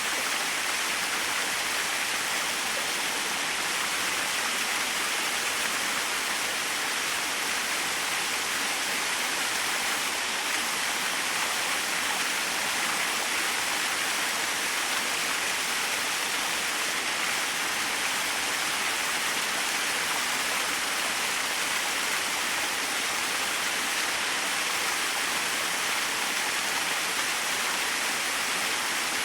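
A small waterfall splashing and rushing in a steady, even hiss, with no change throughout.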